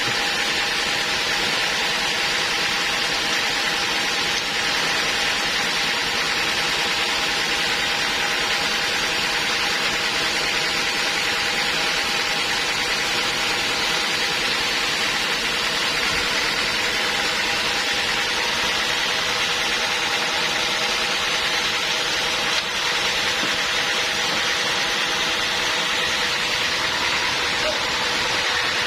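Sawmill machinery running steadily, an even, unbroken machine hum with a few constant tones.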